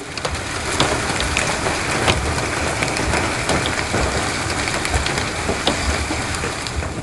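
A heavy storm downpour pelting a hard surface: a dense, steady patter with frequent sharp hits scattered through it, starting suddenly.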